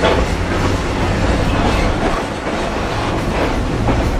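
Vintage railway passenger car running at speed, heard from inside the cabin: a steady rumble of wheels on the track with clicks over the rail joints.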